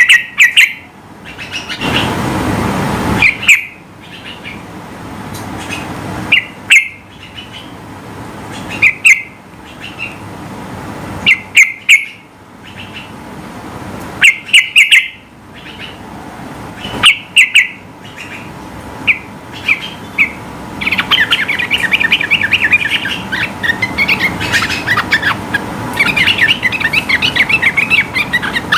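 Yellow-vented bulbul (trucukan) singing short, loud, bubbling phrases of two or three notes every two or three seconds. About three-quarters of the way through it breaks into a long, fast, unbroken chatter: the rapid-fire "ropel" song that bulbul keepers prize. A rush of noise lasting about a second comes near the start.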